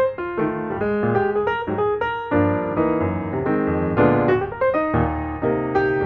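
Background piano music: a melody of quick, struck notes over chords.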